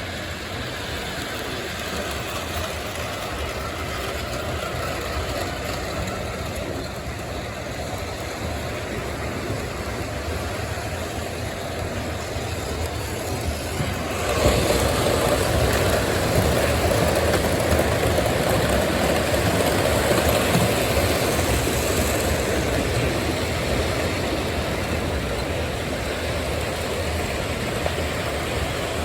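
O gauge model trains running on a layout: a steady rumble of motors and wheels on the track. It gets suddenly louder about halfway through, then eases off a little toward the end.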